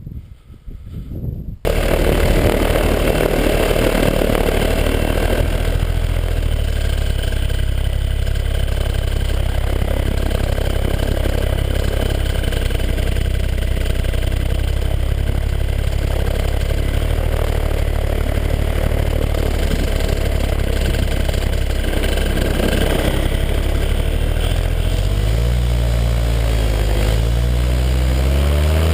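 185 cc paramotor engine and propeller, running loudly and steadily from about two seconds in. Its pitch rises and falls with the throttle near the end.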